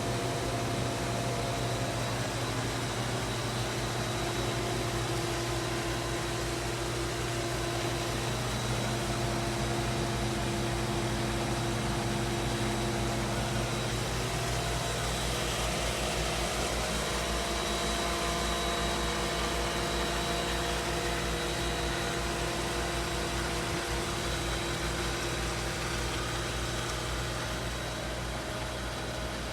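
HVAC unit running: a steady mechanical hum with fan air noise and a few steady tones.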